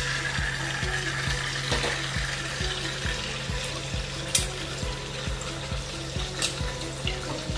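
An egg and slices of tocino sizzling in frying pans on a gas hob, with two sharp clicks about four and six and a half seconds in. Background music with a steady beat plays underneath.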